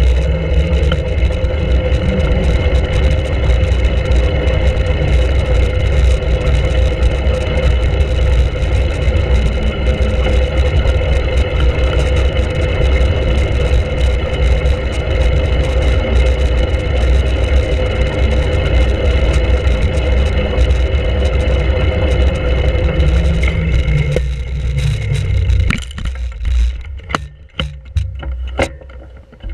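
Loud rumble of a bicycle ride picked up on a GoPro: wind buffeting the microphone and tyre noise, with a steady hum over it. About 25 seconds in the noise falls away as the bike slows, and a few sharp clicks follow near the end.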